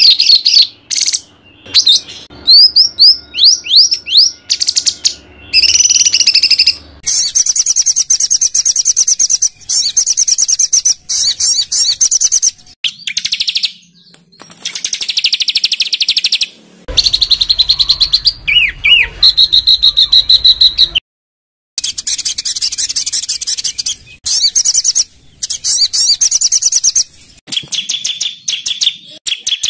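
Loud songbird song made up of bursts of rapid, harsh, high-pitched trills and short down-slurred whistled notes, broken by brief pauses. These are the rapid 'tembakan' notes used as masteran to train competition songbirds.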